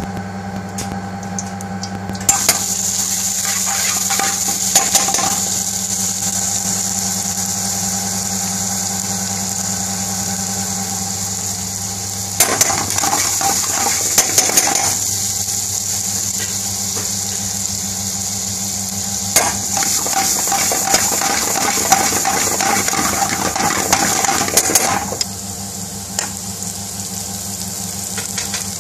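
Food frying in a frying pan on a gas stove: a steady sizzle that starts about two seconds in. Three spells of stirring and tossing, with the utensil scraping and clattering against the pan, break in over a steady low hum.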